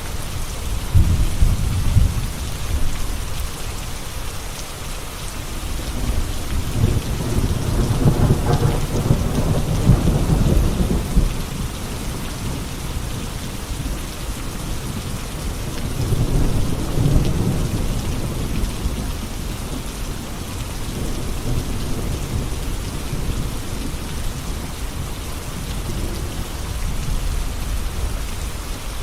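Steady rain falling through a thunderstorm, with thunder rolling three times: a short rumble near the start, a longer and louder roll around a third of the way in, and another a little past halfway.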